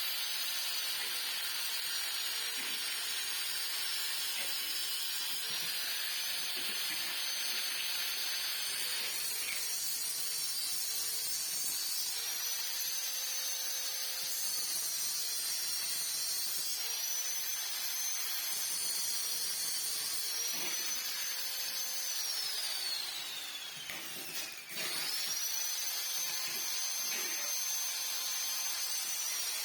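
Small high-speed power tool running with a steady whine, its pitch dipping and recovering several times as it is pressed into the work. Near the end it winds down, cuts out briefly and starts up again.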